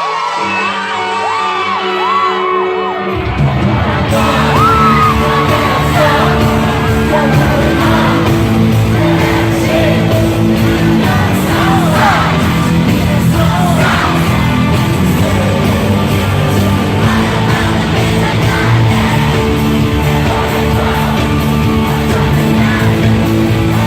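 Live pop music played loud over a concert sound system in a large arena, with a singer's voice and fans yelling and whooping. A sparse opening with sliding vocal lines gives way about three seconds in to the full track with heavy bass and a steady beat.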